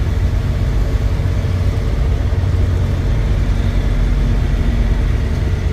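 Truck engine running steadily while driving: an even, low rumble with road noise.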